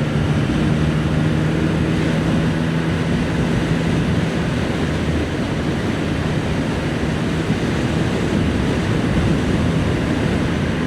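Motorcycle engine running steadily at cruising speed under heavy rushing wind noise. The engine hum is clearest in the first few seconds, then sinks into the wind.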